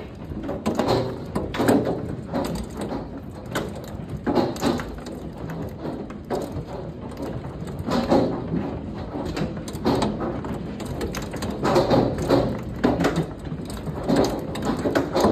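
Hailstones striking hard surfaces: a dense, irregular run of knocks and thuds over a steady rushing noise.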